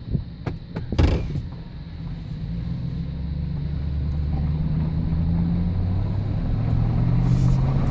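2008 GMC pickup truck under way, its engine hum building steadily as it gathers speed, with a short knock about a second in.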